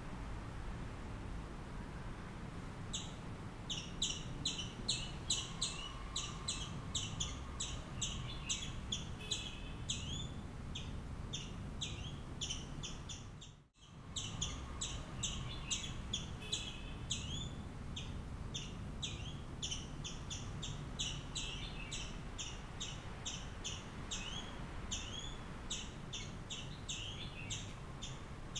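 A small bird chirping rapidly and repeatedly, several short chirps a second, over a steady low background noise. The sound drops out for a moment about halfway through.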